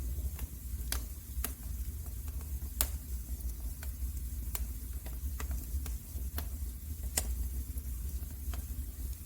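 Wood fire crackling in a fireplace: irregular sharp pops and snaps, a few louder ones, over a low steady rumble of the burning fire.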